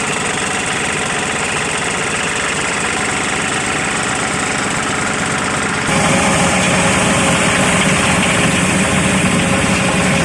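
A zuriat fruit chopping machine's motor running with a steady mechanical drone. About six seconds in, the sound abruptly becomes louder and brighter.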